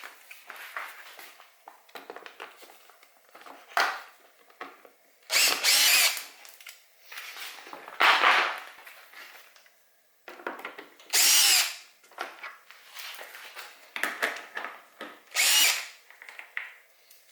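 Power drill driving bolts out of the bike's plastics in several short bursts of half a second to a second, with tools and parts clattering between them.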